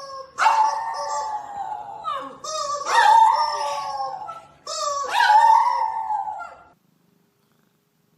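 A dog howling: three long howls, each sliding down in pitch, that stop suddenly about two-thirds of the way through.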